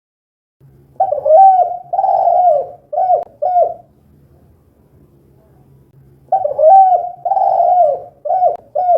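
Spotted dove (tekukur) cooing, twice a four-note phrase: two longer coos followed by two short ones, over a faint low hum.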